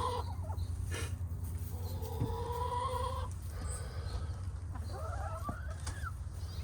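Hens calling: a drawn-out call lasting over a second about two seconds in, and a call that rises then falls about five seconds in, over a steady low hum.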